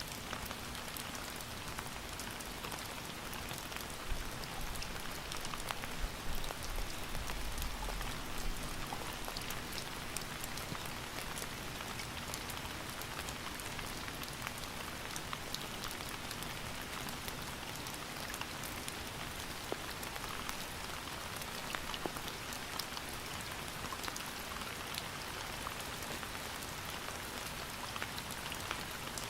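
Steady rain falling: a dense even hiss with many individual drops ticking on a surface. A brief low rumble swells about a quarter of the way in.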